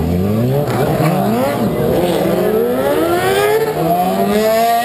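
Several motorcycle engines revving, their pitches rising and falling over one another in quick, repeated throttle blips.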